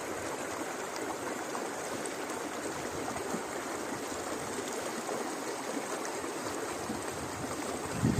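River water rushing and burbling steadily.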